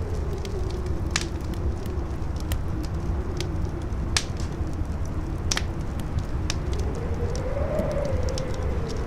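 Wind howling in a wavering tone over a low rumble, the howl rising in pitch near the end, while a wood fire crackles with scattered sharp pops, the loudest about a second in and around four and five and a half seconds in.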